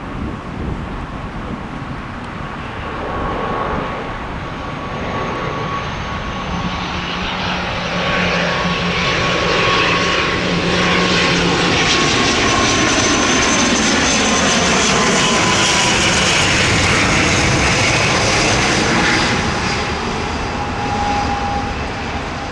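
Airliner's engines passing low overhead near the runway end. The sound builds for several seconds, is loudest around the middle, then eases off, with high whining tones dropping in pitch as the aircraft goes past.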